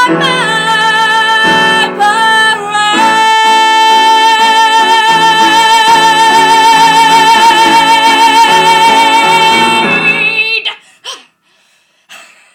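A woman singing with accompaniment, a short sung phrase and then a long held high final note with wide vibrato. The music stops about eleven seconds in, leaving only a few faint clicks.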